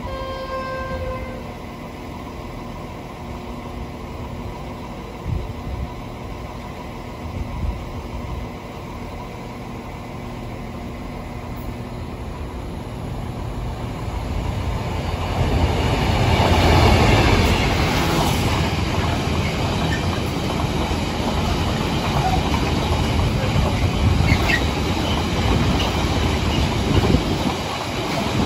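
Irish Rail 071 class diesel locomotive, with its EMD V12 two-stroke engine, approaching and passing with a container freight train. A low rumble builds from about halfway and is loudest as the locomotive passes, then the wagons roll by with wheels clattering on the rails. A brief horn note fades away right at the start.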